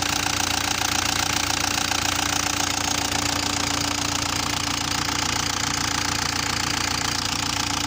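Diesel engine of a Japanese road roller running steadily with a fast, even knocking: the bad noise being checked.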